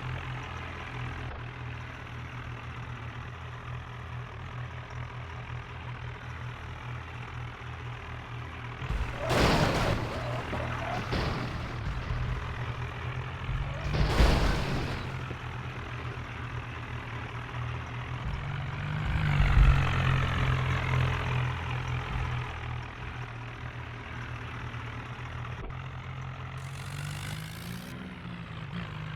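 Swaraj 963 FE tractor's diesel engine running steadily, with three louder swells of noise about nine, fourteen and twenty seconds in.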